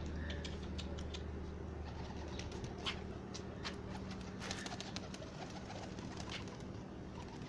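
Pigeons cooing, with scattered light clicks and scuffs that bunch together around the middle, over a low steady hum.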